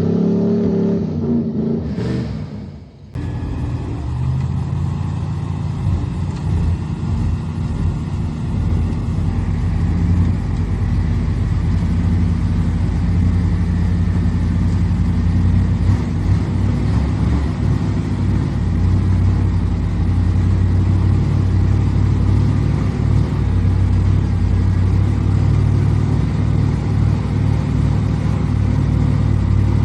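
Vehicle engine running while driving, a steady low drone. The sound drops away briefly about three seconds in, then the engine drone carries on steady and deeper.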